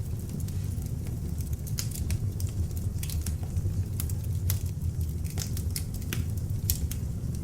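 Beech-wood log fire in an open fireplace burning steadily: a low rumble of flames with frequent sharp crackles and pops of the wood.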